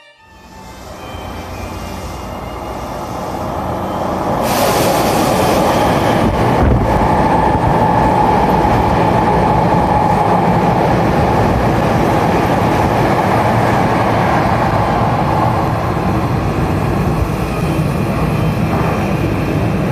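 Hankyu 1000 series electric train pulling out of a station platform and running past. The running noise builds over the first four seconds, then stays loud and steady, with a steady whine over the rumble in the middle.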